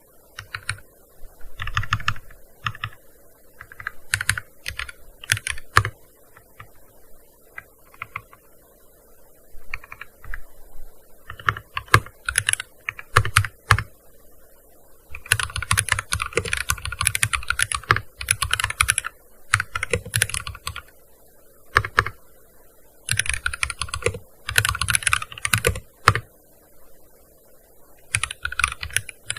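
Typing on a gaming keyboard: quick runs of key clicks with pauses of a second or two between them, the longest run about halfway through.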